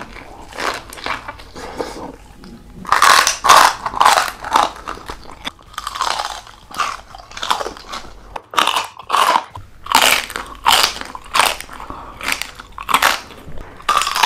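Close-up biting and chewing of crispy fried pork skin: a quick run of sharp, loud crunches, softer for the first few seconds.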